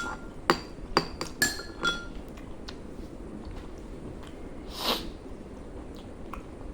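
Cutlery clinking sharply against a bowl several times in the first two seconds, each strike ringing briefly, then a short hissing noise about five seconds in.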